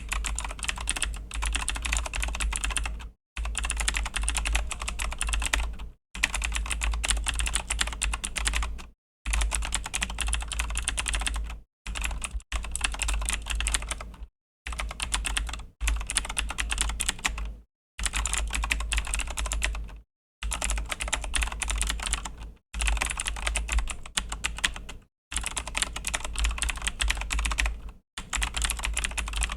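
Continuous typing on a Razer BlackWidow V3 mechanical keyboard with Razer Green clicky switches: dense runs of key clicks, broken by brief pauses every two to three seconds.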